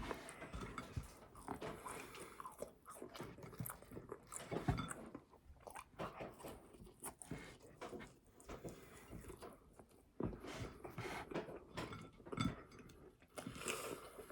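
Close-miked chewing and biting of a bacon cheeseburger. Irregular wet mouth clicks and smacks run throughout, with one sharper bite a little under five seconds in.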